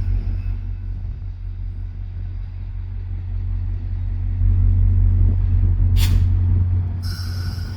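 Diesel passenger train locomotive running with a steady low rumble. A short sharp burst comes about six seconds in, then a hiss of released air near the end.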